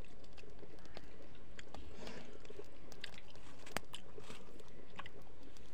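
Close-up chewing and wet mouth clicks of a person eating rice and fish curry by hand, with one sharper click about two-thirds of the way in.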